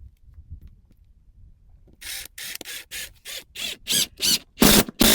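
A run of about nine short rasping strokes, roughly three a second, each louder than the last, after a couple of seconds of faint low rumble.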